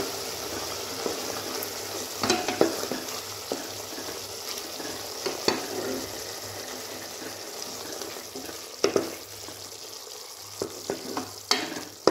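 Mutton pieces frying in hot oil with masala, sizzling steadily while a spatula stirs them, with scattered scrapes and taps of the spatula against the pot.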